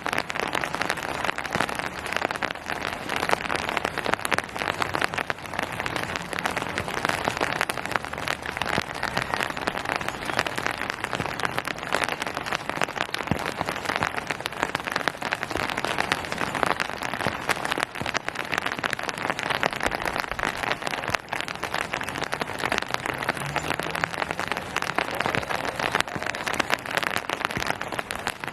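Steady rain falling on surfaces: a dense, even hiss of many raindrops pattering.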